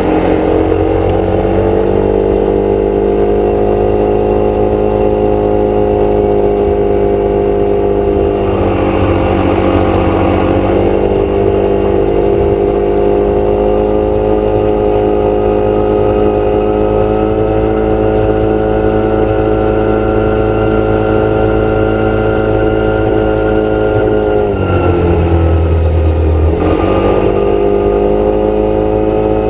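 An engine running steadily, its pitch dipping and recovering twice, about nine seconds in and again near the end.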